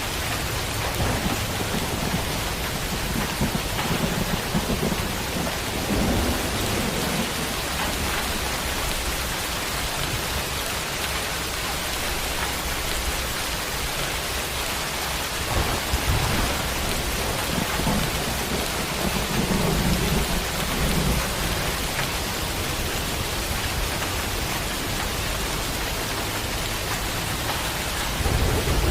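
Steady heavy rain with low rolls of thunder rumbling in and out, swelling a few seconds in, again about two-thirds of the way through, and near the end.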